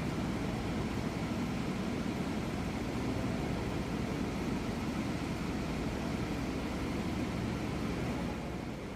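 Steady low hum and rumble of background noise, unbroken, with no distinct events.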